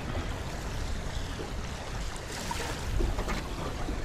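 Strong wind buffeting the microphone, with waves lapping against a small fishing boat's hull.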